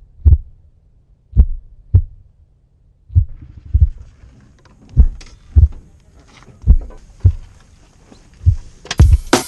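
Heartbeat sound effect: paired low thumps, lub-dub, repeating evenly about every two seconds, with a faint rising hiss building behind them from about three seconds in. Music cuts in just before the end.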